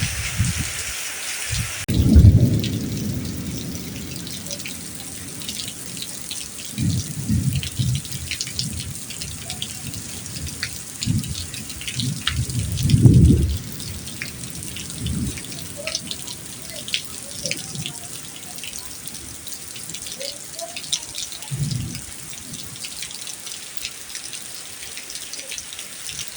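Heavy rain falling, with many separate drops and drips pattering close by. Low rumbles swell up now and then, loudest about two seconds and thirteen seconds in.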